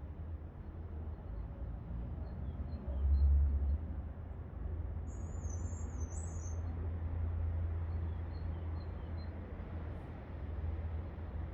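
A bird calls once with a high warbling chirp lasting about a second and a half, over a steady low rumble that swells briefly about three seconds in.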